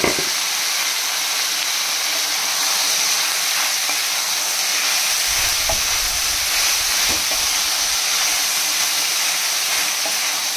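Milky mushroom pieces sizzling in hot oil in a steel kadai, a steady frying hiss, with a few light scrapes and knocks of a spatula stirring them.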